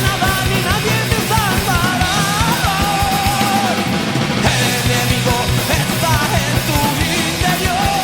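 Heavy metal band playing, with rapid drum hits and a high wavering melody line bending and shaking in pitch over the dense band sound.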